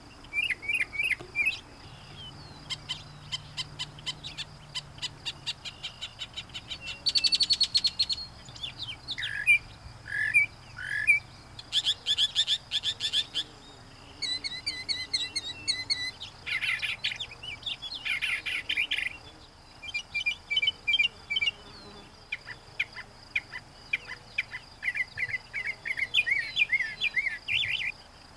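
Northern mockingbird singing a long medley of imitations of other birds' songs and calls. Each phrase is repeated several times before it switches to a new one every second or two.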